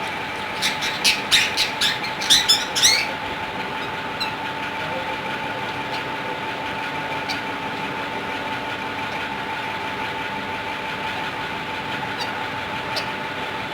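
Pet plum-headed parakeets squawking: a quick run of about eight shrill calls in the first three seconds, then a single call now and then. A steady mechanical hum runs underneath.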